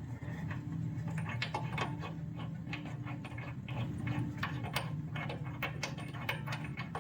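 Ratchet wrench clicking in short irregular runs as a spark plug is unscrewed from a small single-cylinder minibike engine, over a steady low hum.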